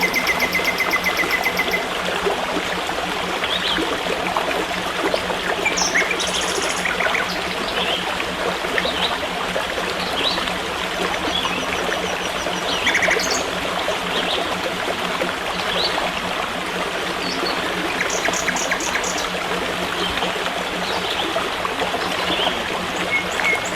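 A stream flowing and trickling steadily, with small birds singing over it: several rapid trills and scattered short chirps.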